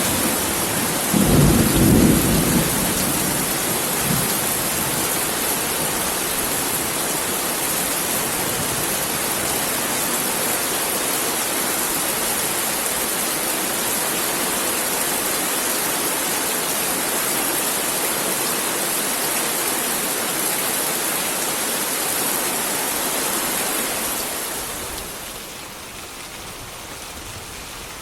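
Heavy rain falling steadily, with a low rumble of thunder about a second or two in. Near the end the rain suddenly becomes quieter.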